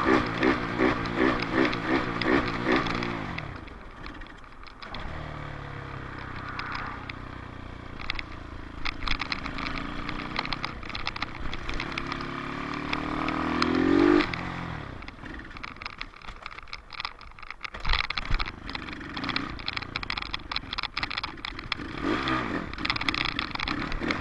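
Dirt bike engine running: it pulses in quick surges at first, then climbs steadily in pitch to a loud peak about fourteen seconds in before dropping away, and ends with a rougher, uneven note.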